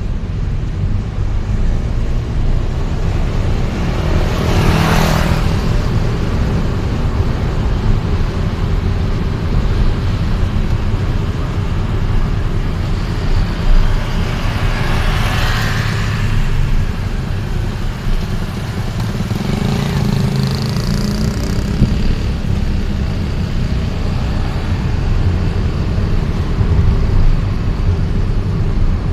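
Steady low rumble of a vehicle riding through city traffic, with other vehicles rushing past three times.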